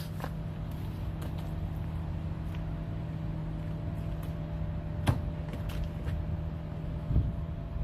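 A 2.2-litre four-cylinder car engine idling steadily, just started after long storage and left running to recharge its weak battery. A sharp click about five seconds in.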